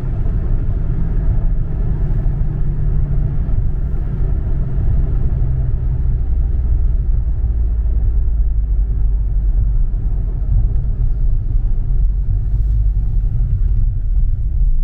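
2017 Dodge Charger Scat Pack's 392 HEMI V8 running on the move, a steady low exhaust rumble with road noise.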